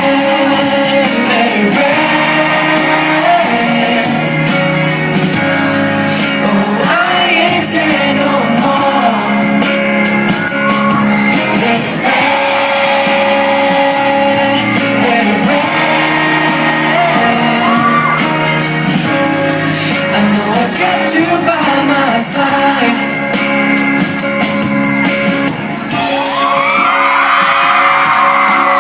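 Live pop song with a singing voice over band accompaniment and a steady beat, with shouts and whoops from the audience.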